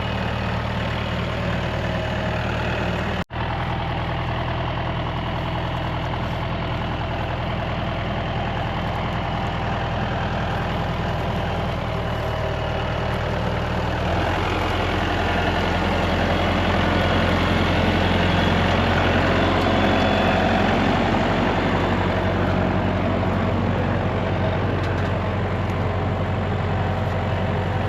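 A vehicle engine running steadily. The sound cuts out for an instant about three seconds in, and about halfway through the engine note shifts and grows louder.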